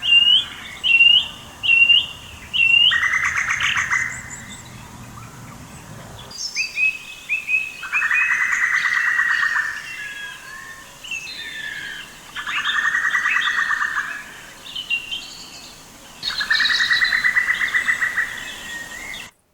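Field recording of birds calling: a quick series of four short rising chirps, then a buzzy, rapidly pulsed call about a second long that comes four times, with scattered chirps in between. A low background rumble is there for the first six seconds and then drops away, leaving the calls on a cleaner, de-noised background.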